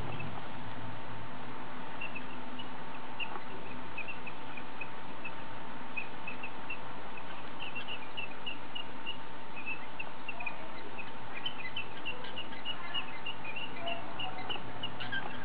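Small birds chirping in short, high peeps, a few each second, over a steady background hiss and hum.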